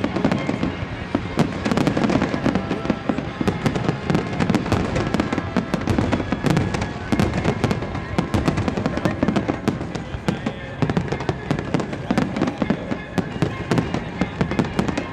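Fireworks display in a dense barrage: many shells bursting and crackling in rapid, overlapping bangs, with no let-up.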